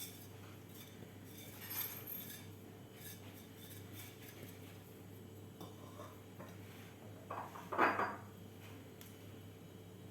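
A spoon or utensil clinking and scraping lightly against a bowl while spices are mixed into a sauce, with a louder scrape about eight seconds in, over a steady low hum.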